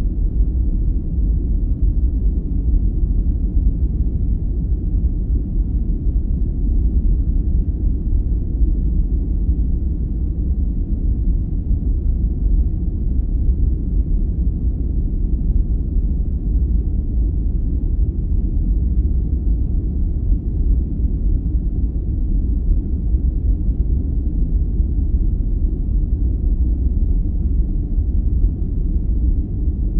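Steady, deep rumbling noise with no treble and no changes: a sleep noise track.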